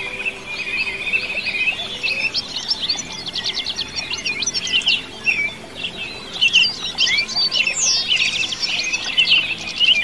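Songbird singing a fast, varied, unbroken song of high chirps, quick sweeps and rapid trills.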